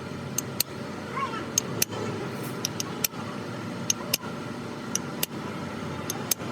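Workshop noise: sharp metallic clicks and taps, the strongest about once a second, over a steady hum.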